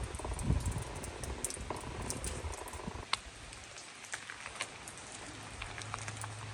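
Rain falling, with scattered drops ticking and pattering close by, and a few low thumps in the first second. A faint low hum comes in about halfway through.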